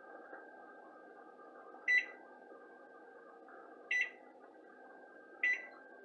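Microwave oven keypad beeping three times, about two, four and five and a half seconds in, as the buttons are pressed to set high power (power level 10) and the time; a faint steady hum runs underneath.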